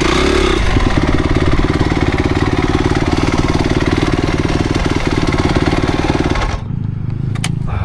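Motocross motorcycle engine running loudly at a steady pitch, then cutting off abruptly about six and a half seconds in, leaving quieter noise with a few clicks.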